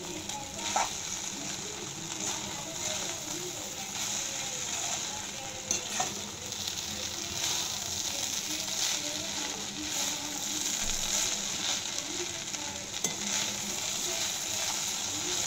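Onion poha (flattened rice with onions and peanuts) sizzling gently in a kadhai as it is stirred and turned over with a spatula, the utensil scraping and clicking against the pan every few seconds.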